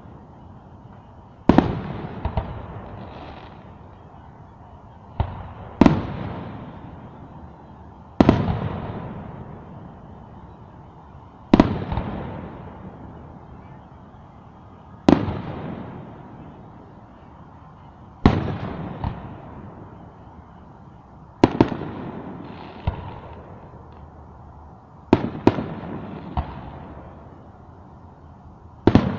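Aerial firework shells bursting: a sharp boom every three to four seconds, each trailing off in a long rolling echo, some followed by a few smaller pops.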